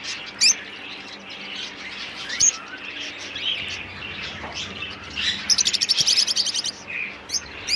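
Caged birds chirping: sharp high chirps every second or two, and a fast trill of about ten notes a second lasting just over a second, starting about halfway through.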